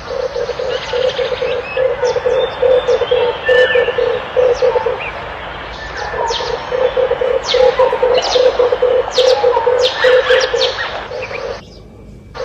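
Red turtle dove cooing: a low, fast, rolling coo repeated as a steady run of pulses, with one pause partway through. High, quick chirps of other small birds sound over it. The sound drops away briefly near the end.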